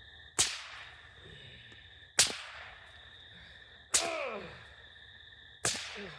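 A whip cracked four times, about every two seconds, each crack sharp and loud and trailing off quickly.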